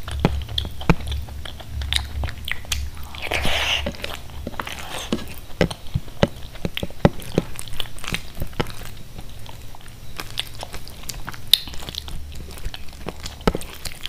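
Close-up wet chewing with many sharp mouth clicks while eating khichdi, along with fingers squishing and mixing the rice on a plate. A steady low hum runs underneath.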